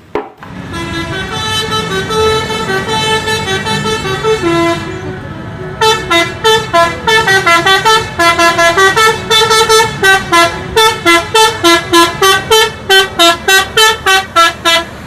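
Bus melody horn (telolet) playing a tune: a held sequence of notes at first, then from about six seconds in, a long run of quick short toots, about three a second, stepping up and down in pitch.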